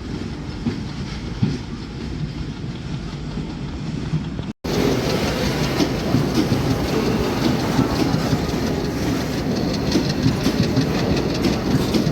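Freight train of bogie oil tank wagons rolling past, wheels clattering over the rail joints. There is a sudden break about four and a half seconds in, after which the rolling is louder, with a fast run of clicks.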